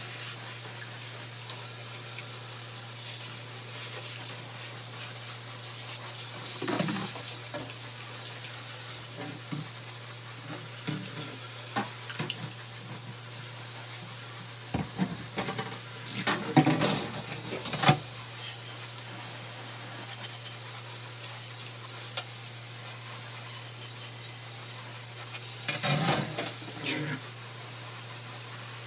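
Water running steadily into a bathtub as fan parts are rinsed under it, with a few knocks and clatters of the parts being handled, clustered in the middle and again near the end.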